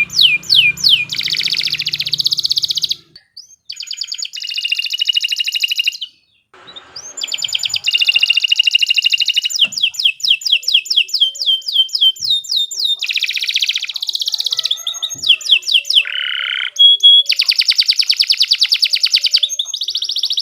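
Domestic canary singing a long, fast song of rapid repeated downward-sweeping notes and buzzing trills, broken by two short pauses about three and six seconds in.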